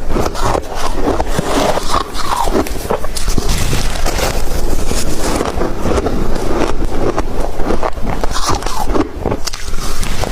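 Close-miked crunching and chewing of ice: a dense, loud run of cracks and crunches, with a couple of brief lulls between bites.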